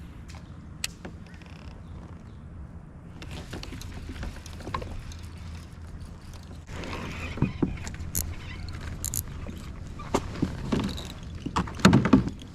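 Kayak fishing sounds: a few light clicks and knocks against a steady low background, then from about seven seconds in louder rustling and splashing with scattered knocks, loudest near the end, as a bass is brought to the kayak.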